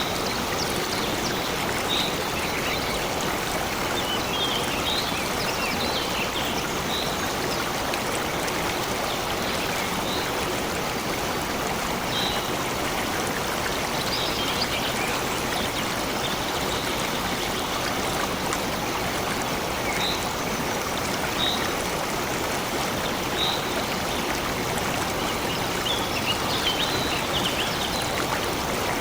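Steady rush of a flowing stream, with short high bird chirps every few seconds.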